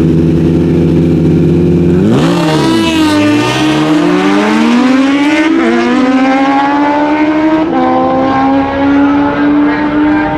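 Naturally aspirated Super Stock drag motorcycles held at steady revs on the line, then launching about two seconds in. Engine pitch climbs and drops back at each upshift, once near six seconds in and again near eight, as the bikes pull away down the track.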